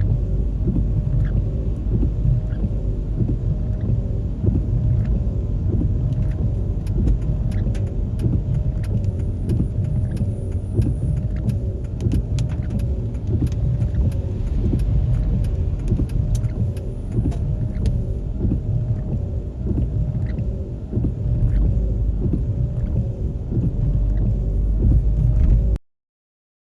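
Steady low rumble of a vehicle driving along a road, with faint scattered clicks over it; the sound cuts off abruptly near the end.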